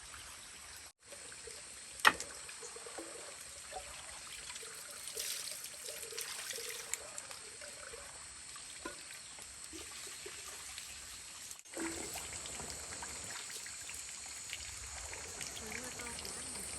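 Water trickling and pouring steadily, with one sharp knock about two seconds in.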